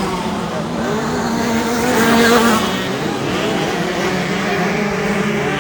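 Several 65cc two-stroke motocross bikes racing, their engines revving with wavering, overlapping pitch, one swelling louder about two seconds in.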